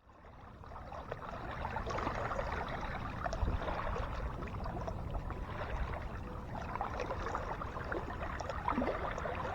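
Water lapping and splashing around a boat on a lake, many small irregular splashes over a steady low rumble. It fades in over the first two seconds.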